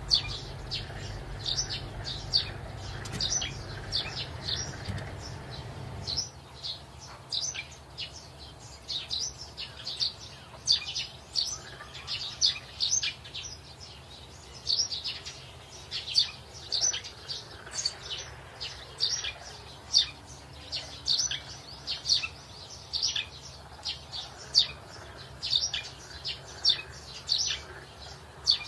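Small birds chirping over and over: short, high chirps about two or three a second, uneven in timing. A low hum under them stops about six seconds in.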